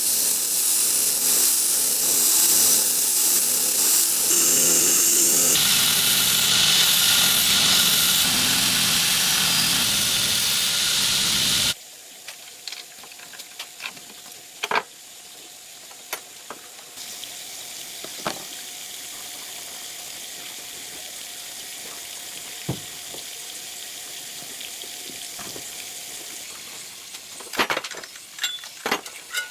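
A knife blade being sharpened: a loud, steady abrasive scraping of steel on an abrasive that cuts off abruptly after about twelve seconds. Then quieter workshop handling, with scattered clicks and taps and a quick run of them near the end.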